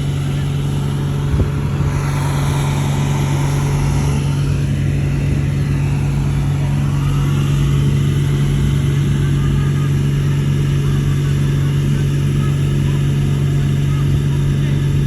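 Heavy diesel engine of earth-moving machinery running steadily at one constant pitch, with no revving.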